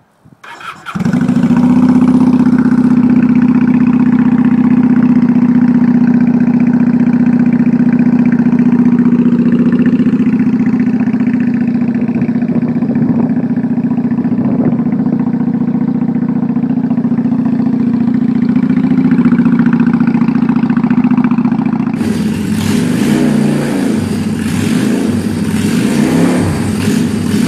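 Honda VT400 V-twin motorcycle engine through its exhaust, starting about a second in and then running at a steady, even note. From about four-fifths of the way through, a rougher, uneven note with rises and falls.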